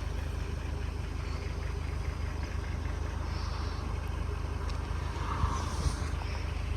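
Steady low engine hum, like a road vehicle idling, over general outdoor noise.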